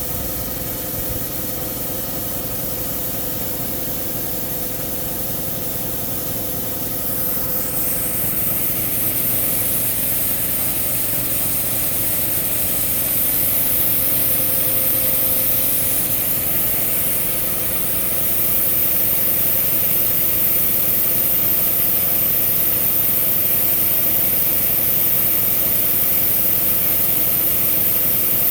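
Air compressor running steadily while a tractor tire with a new inner tube is aired up, with a high hiss of air on top. It gets a little louder in steps, about a quarter, half and two-thirds of the way through.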